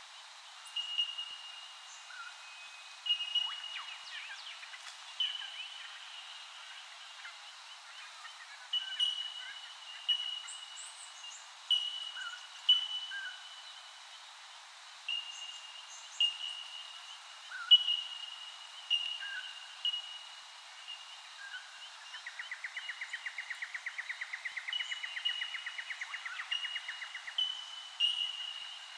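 Birds calling: a string of short high notes, each with a sharp start, about one a second. About three-quarters of the way through, a fast even trill runs for about five seconds.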